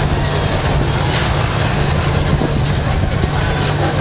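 Engines of combine harvesters running steadily, a continuous low engine drone under a wash of noise.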